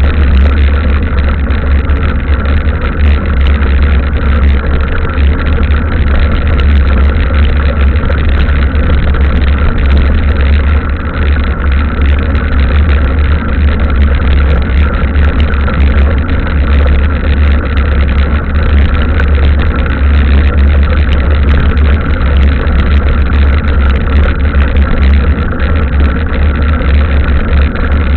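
Loud, steady low rumble of wind buffeting the camera microphone while riding a mountain bike on the trail.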